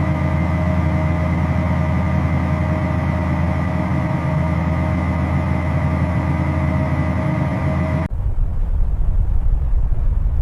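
Heavy vehicle engine running at a steady, even pitch with a constant whine above it, cutting off abruptly about eight seconds in and giving way to a low, uneven rumble.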